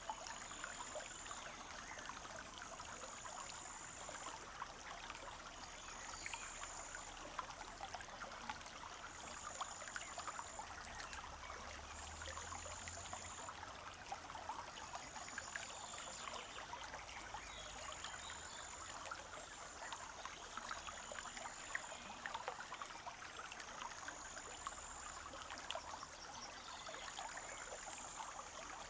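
Forest brook trickling and babbling steadily. Above the water a high, thin note about a second long repeats every two to three seconds.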